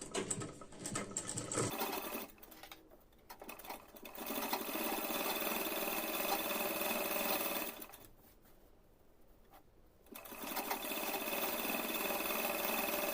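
Sewing machine stitching a blouse neckline: a few small clicks of handling first, then the machine runs steadily for about three and a half seconds, stops for about two seconds, and starts running again.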